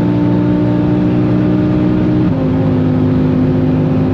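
Audi RS3 2.5-litre turbocharged five-cylinder engine running hard at high speed in a Skoda Superb, heard from inside the car. About two seconds in, its steady note steps down in pitch as it shifts up a gear.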